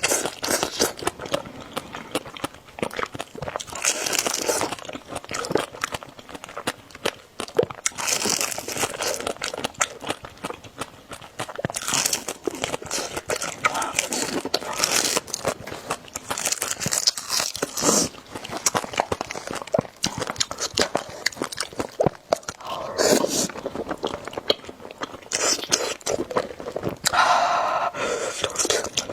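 Close-miked eating of spicy noodle soup: continuous chewing and wet mouth clicks, with louder noisy bursts every few seconds.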